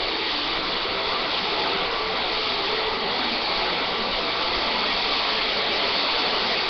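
Vacuum cleaner running steadily, its motor and rushing air making an even hiss.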